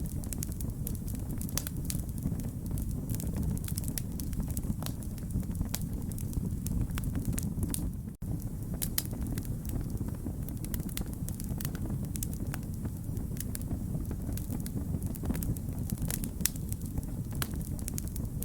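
Wood fire burning steadily, with a low rumble and many sharp, irregular crackles and pops. The sound cuts out for an instant about eight seconds in.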